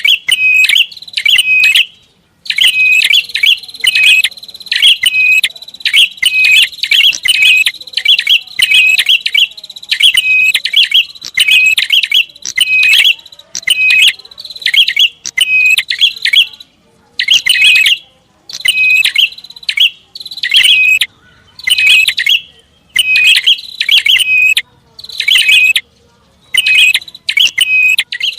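Prenjak (prinia) giving its agitated call: rapid series of sharp, high chirps, several a second, broken by brief pauses throughout, as used for a bird-lure recording.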